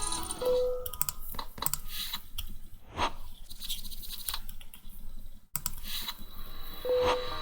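Scattered quick clicks and ticks, like computer keys or a mouse, with a short beep about half a second in and again near the end.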